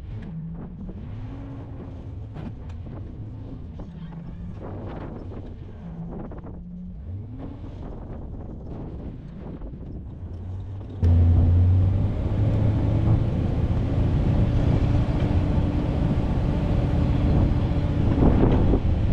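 Vehicle engine running, its pitch rising and falling. About 11 seconds in it cuts abruptly to a louder, steadier engine drone with wind on the microphone.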